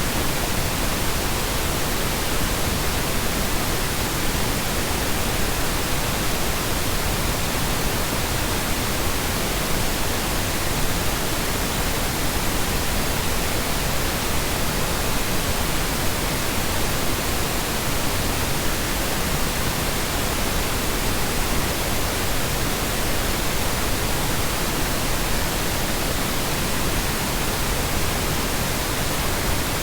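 Synthesized Brownian noise: a steady, unchanging hiss with no tones, rhythm or shifts in volume.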